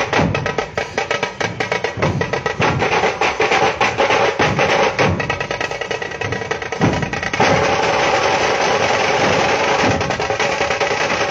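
Fast, loud drumming with rapid repeated strokes. About seven seconds in it shifts to a denser, steadier roll.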